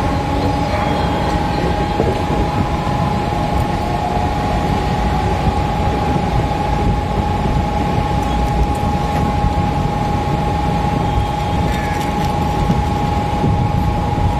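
Mumbai local electric multiple-unit train running at speed, heard from inside the coach: a steady rumble of wheels on the track with a constant high whine held throughout.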